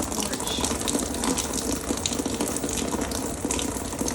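Rainwater pouring steadily off the balconies above and splashing down where it gathers, with many small splats through the running water; the balconies don't drain properly.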